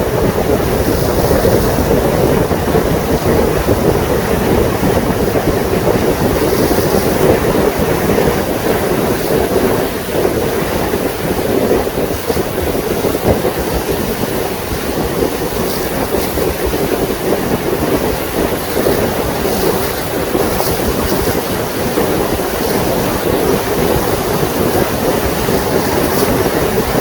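Steady wind buffeting the microphone over rushing water and a constant low hum, as heard on deck of a moving lake boat.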